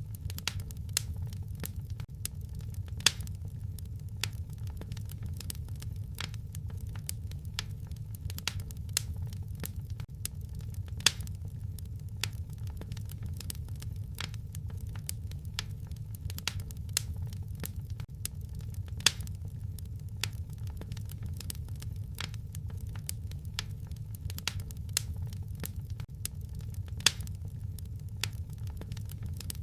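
Wood fire crackling: dense small snaps and pops over a steady low rumble, with a louder pop about every eight seconds.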